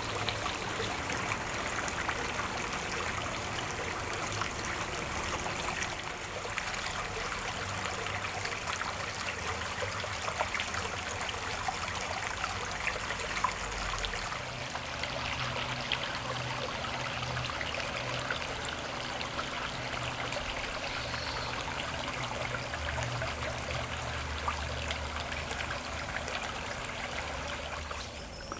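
Running water, a steady rushing and trickling of the flooded River Arun's floodwater. A low steady hum joins underneath about halfway in and fades near the end.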